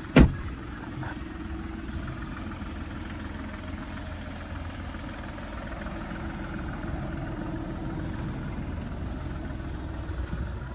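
Skoda car engine idling steadily, with one sharp knock about a quarter second in.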